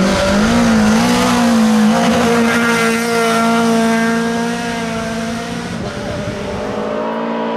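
Tuned Volvo rally car's engine revving hard: the pitch climbs and wavers for a moment, then is held at high revs for several seconds, sagging slightly and growing a little fainter in the second half.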